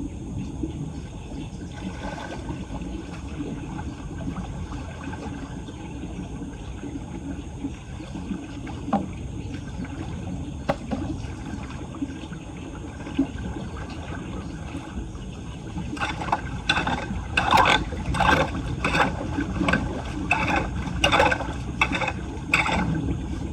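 Floodwater draining at a clogged street drain with a steady low rush. In the last several seconds comes a quick run of short, harsh strokes, about two a second.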